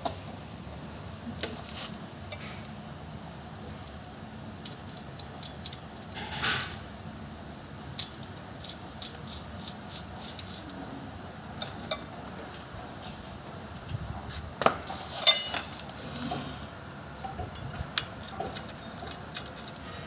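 Scattered metallic clinks and taps of hand tools and steel parts being handled during a rear axle bearing replacement, with two sharper clanks about fifteen seconds in.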